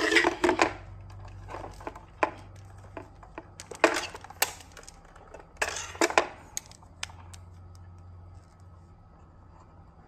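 Clicks, taps and scraping of small hard objects being handled, in a few short clusters, over a faint low hum that fades away near the end.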